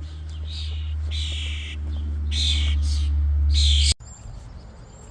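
Young rescued songbirds calling in four raspy bursts, about one a second, over a loud low steady rumble that cuts off abruptly about four seconds in.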